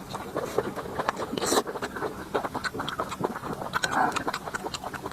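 Close-miked eating: steady chewing with wet mouth clicks and smacks, and a couple of louder breaths about one and a half and four seconds in.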